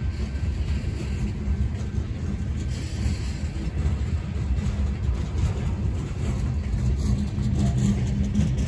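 Gondola cars of a long freight train rolling past, a steady low rumble of steel wheels on the rails with faint ticks and rattles.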